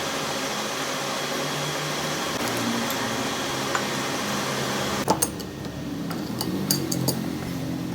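Lathe running steadily while it cuts gear teeth. About five seconds in the steady running drops away and a few sharp metallic clicks and knocks follow.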